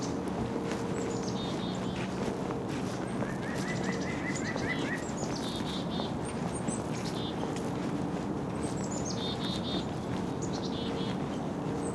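Small songbirds calling and singing: repeated short phrases of notes stepping down in pitch, and a run of notes lower down about three seconds in. A steady low hum lies underneath.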